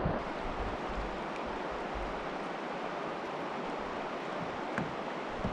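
Steady rush of flowing river water, with low gusts of wind buffeting the microphone.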